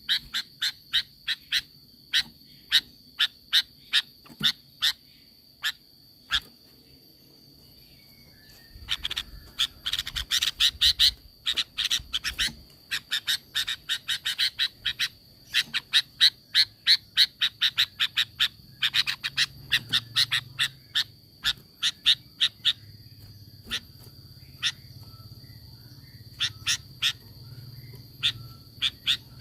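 Sooty-headed bulbul (kutilang) calling in rapid runs of short, sharp notes, several a second, thickest through the middle, over a steady faint high-pitched tone.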